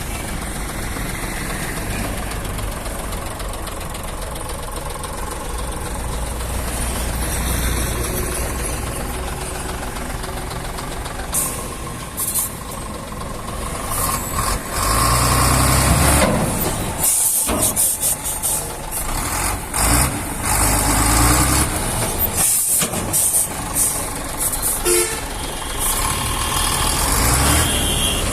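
Heavy truck engine running steadily. About halfway through it grows louder and more uneven, with repeated short hissing bursts.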